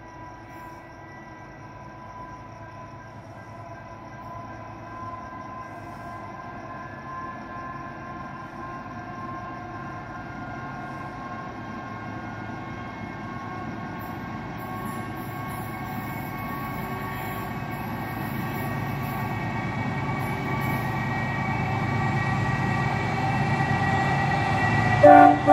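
An approaching train, its sound building steadily as it nears. A short, loud blast of its horn comes near the end.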